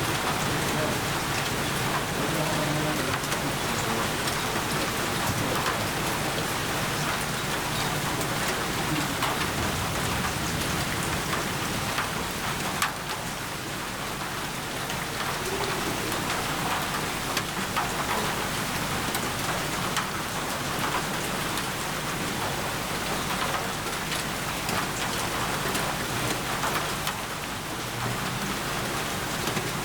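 Steady rainfall: a dense, even hiss of rain on surfaces, with scattered individual drops ticking through it.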